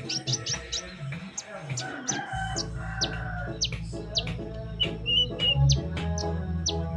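Kolibri ninja sunbird singing: a rapid string of short, sharp, high chirps, each dropping in pitch, about three a second. This is the bird 'gacor' and 'nembak', in full song. Background music plays underneath.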